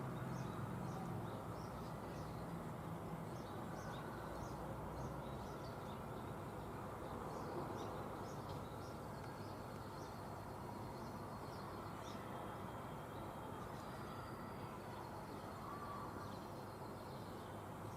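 Deep, steady buzz of an Airbus A400M's four propeller-driven turboprops flying high overhead, slowly fading. Small birds chirp over it.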